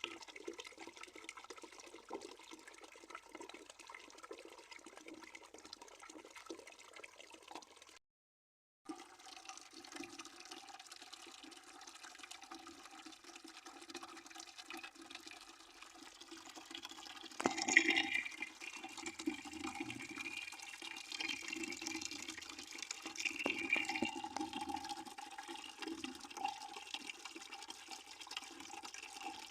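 A stream of water flowing and splashing steadily into a bucket. The sound cuts out completely for about a second around 8 seconds in. It grows louder with a sharper splash at about 18 seconds and stays a little louder after that.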